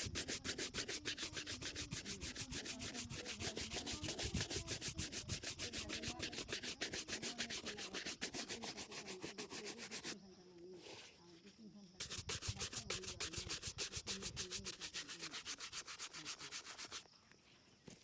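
A shoe being buffed with rapid back-and-forth strokes, several a second, in two long runs with a short pause about ten seconds in; the strokes stop about a second before the end.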